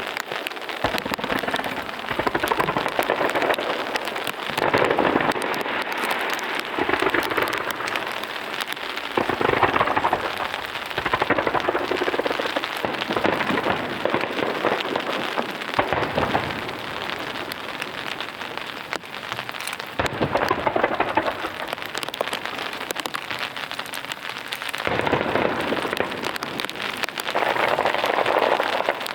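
Heavy rain pattering close to the microphone, a dense crackling hiss, with deep rumbling booms of aerial fireworks from a starmine barrage swelling in every few seconds.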